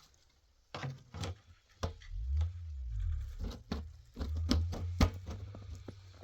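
A series of irregular knocks and taps, about a dozen in a few seconds, over a low rumble; the loudest knock comes near the end.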